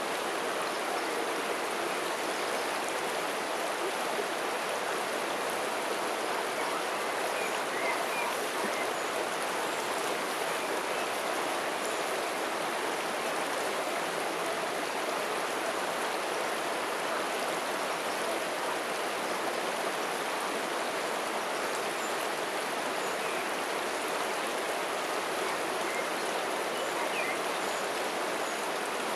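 River water flowing steadily with an even rushing sound.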